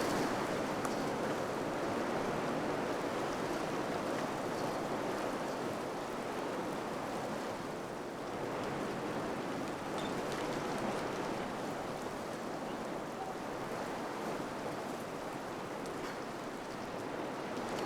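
Wind blowing steadily as a full, even rush that swells and eases gently, with a few faint ticks.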